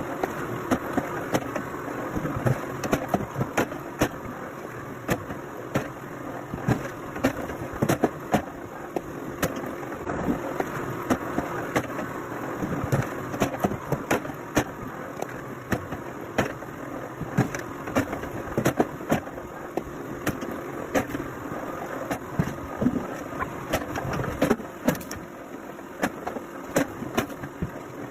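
Engine of a firewood-splitting machine running steadily, with frequent irregular knocks and clacks of wood being worked.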